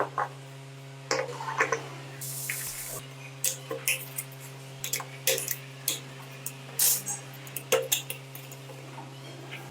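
Scattered clinks and knocks of tools and metal parts being handled, over a steady low hum, with a short hiss about two seconds in.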